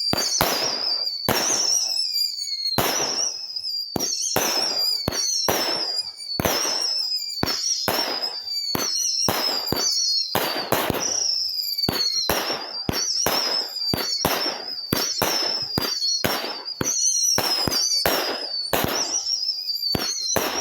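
500-gram consumer cake firework firing shot after shot, about one a second. Each shot gives a falling whistle and sharp bangs, with crackling reports in between.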